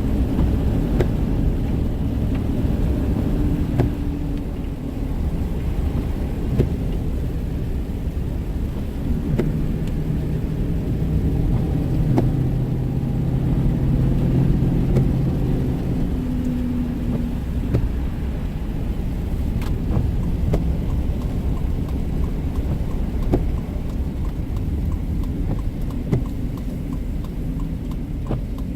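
A car driving on the road: a steady low engine and road rumble, with the engine note growing stronger for a few seconds in the middle and scattered faint ticks.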